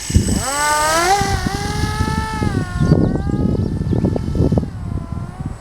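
Motor driving a model Magnus-effect aircraft's spinning rotors, whining up in pitch over about the first second and then running steady, with gusty low rumble underneath.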